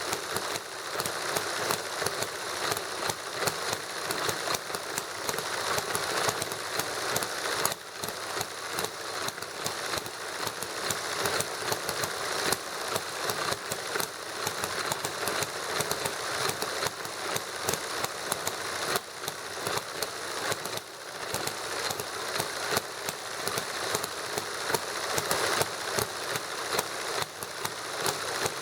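Small model hit-and-miss gasoline engine, fuelled with lighter fluid, running together with a model Stirling engine: a steady stream of rapid pops and mechanical clatter, dipping briefly about 8 and 21 seconds in.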